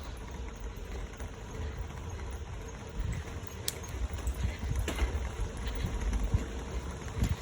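Bicycle tyres rolling over a bumpy boardwalk: a steady low rumble with knocks as the wheels cross the boards, three of them sharper than the rest.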